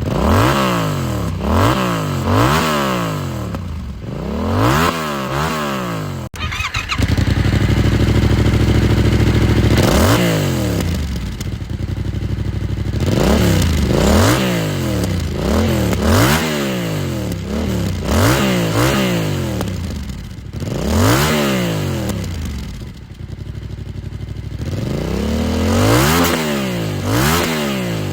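Yamaha R7's parallel-twin engine breathing through a G.P.R. full aftermarket exhaust, revved in quick blips whose pitch climbs and falls about once every second or two. For about three seconds in the first half the revs are held steady and high, then the blipping starts again.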